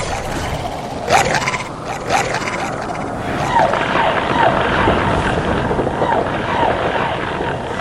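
Steady rush of falling water, with a short falling call repeated about twice a second through the second half.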